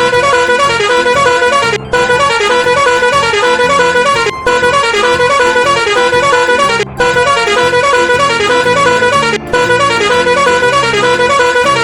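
A loud, continuous horn-like honking sound with several steady tones, in a loop that breaks off for a moment and restarts about every two and a half seconds.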